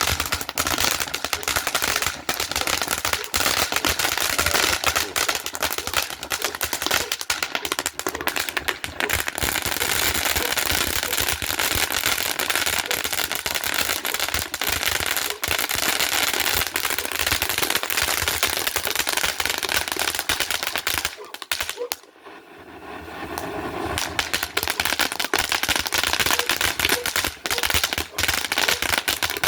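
Consumer firework fountains burning with a dense, rapid crackle over a rushing hiss. About 21 seconds in the crackle dies away briefly, then builds back up as another fountain takes over.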